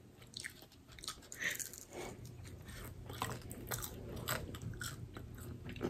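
Quiet chewing and crunching of crispy fried chicken, heard as a scatter of small, irregular crackles.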